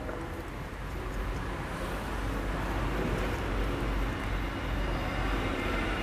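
A passing motor vehicle's rumble, swelling toward the middle and easing near the end.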